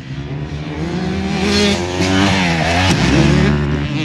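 Motocross motorcycle engines revving hard as bikes pass close by, pitch climbing and dropping with throttle and gear changes, loudest in the middle and fading near the end.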